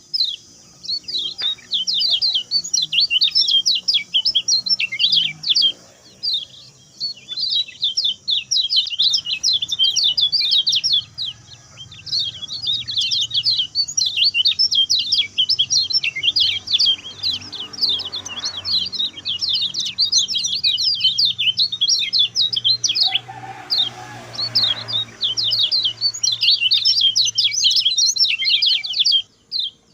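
Lemon-bellied white-eye (kecial kuning) singing a fast, high twittering song in long rapid runs of chirps, with a few short pauses.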